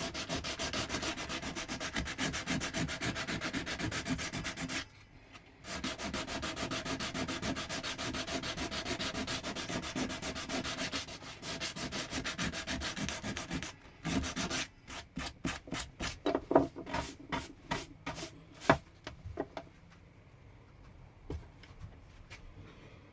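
Sandpaper rubbing on a carved pine wood piece in rapid back-and-forth strokes, with a brief pause about five seconds in. Later the strokes slow into separate rubs, a couple of them louder, and stop about twenty seconds in.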